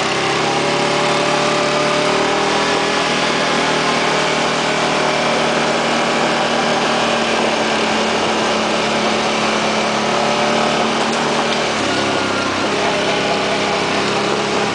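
An engine running steadily, its pitch shifting slightly about twelve seconds in.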